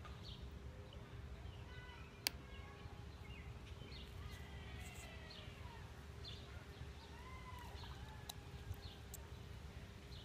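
Faint birds chirping in the background, with a steady low hum and a single sharp click about two seconds in.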